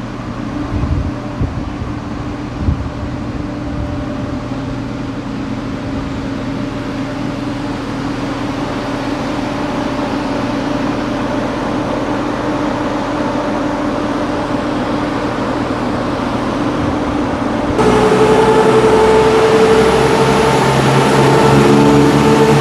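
Diesel passenger train running at the platform: a steady engine hum that slowly grows louder. About eighteen seconds in it switches abruptly to a louder, higher-pitched drone.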